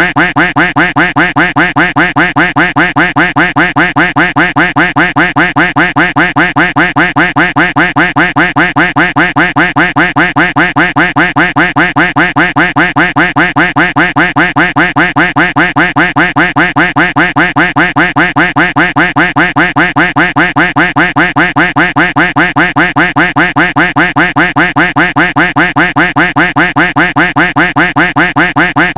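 Duck quack sound effect repeated over and over in a fast, even, unbroken loop.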